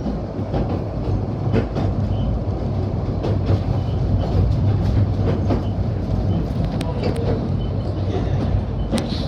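Train carriage in motion heard from on board: a steady low rumble of wheels on rail, with irregular light clicks over the track.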